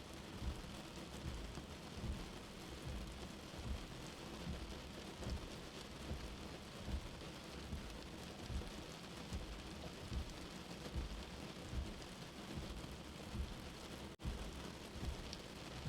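Steady rain falling, mixed with a soft, low heartbeat thumping evenly at about 75 beats a minute. The sound cuts out for an instant about fourteen seconds in.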